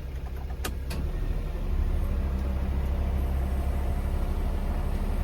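Vehicle engine running with a steady low drone. Two sharp clicks come under a second in, after which the drone grows somewhat louder.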